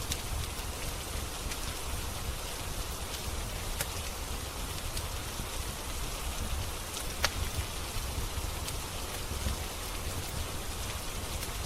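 Steady rain mixed with a fireplace crackling: a constant hiss of rain with scattered sharp pops from the burning wood, the loudest about seven seconds in.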